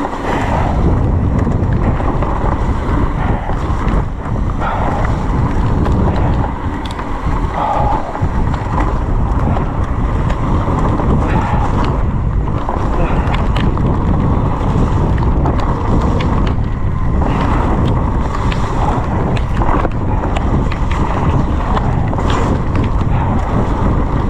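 Wind rumbling on the microphone during a fast mountain-bike descent in heavy rain, with tyre noise and scattered sharp knocks and rattles from the bike over rough ground.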